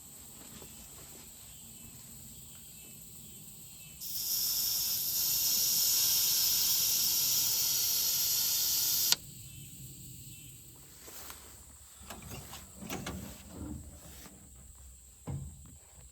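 A loud hiss of pressurized gas escaping, starting abruptly about four seconds in, holding steady for about five seconds and cutting off sharply. Light clicks and knocks follow.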